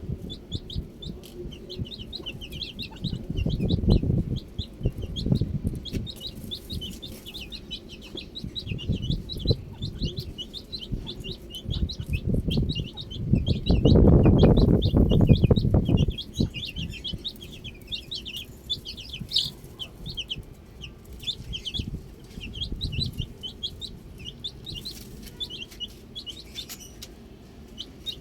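A flock of baby chicks peeping continuously in many short, high, overlapping chirps. Low rumbling noise runs beneath and swells loudest about halfway through.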